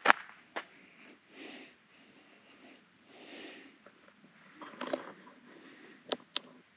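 A person breathing audibly, two breaths about two seconds apart, with footsteps and sharp snaps underfoot; the loudest snap comes right at the start, and there are more around five seconds in and a quick pair near the end.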